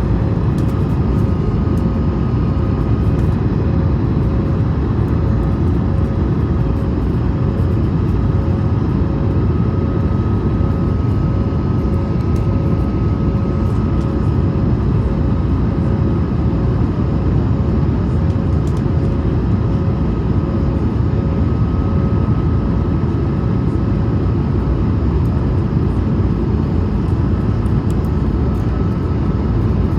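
Steady roar inside the cabin of an Airbus A220: airflow and the noise of its Pratt & Whitney PW1500G geared turbofans, with a faint steady whine and an evenly pulsing hum above it.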